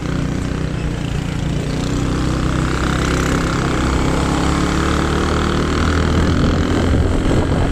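A motor vehicle's engine running steadily, a low hum with a fainter higher whine above it.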